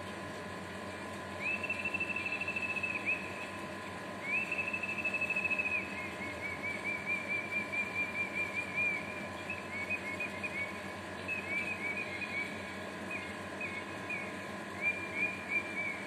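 Male superb bird-of-paradise calling, replayed through a device's speaker: two long, high, trilled notes, then a long run of short quick chirps at a slightly lower pitch, over a steady electrical hum.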